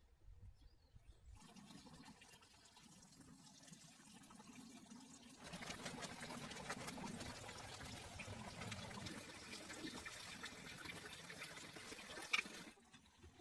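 Water running or pouring, faint at first and louder from about five seconds in, with a single sharp click shortly before it cuts off suddenly near the end.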